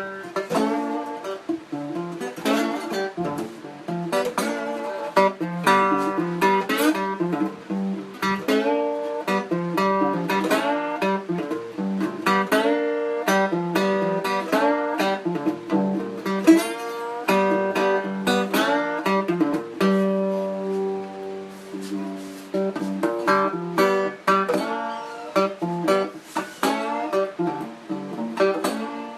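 Guitar music: plucked guitar notes and strums with no singing.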